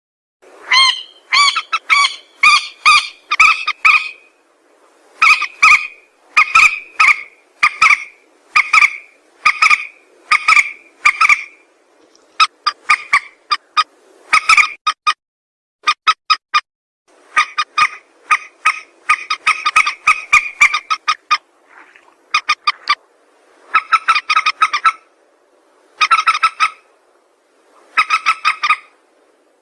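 Calls of the mandar sawah, a paddy-field rail, played as a bird-lure recording: loud, rapid series of sharp, honking notes in phrases of several notes each, broken by short pauses.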